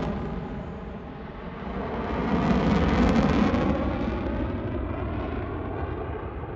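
F-16 fighter jet's engine noise during a display pass, fading, swelling again to a peak about three seconds in, then slowly receding.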